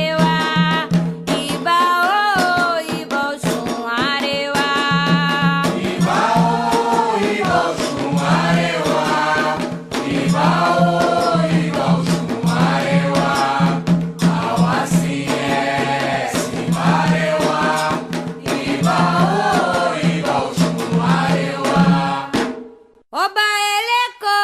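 Group of voices singing a Candomblé Ketu chant to Xangô in Yoruba over hand drums and a rattle. The music stops about 22 seconds in, and a single voice starts the next song near the end.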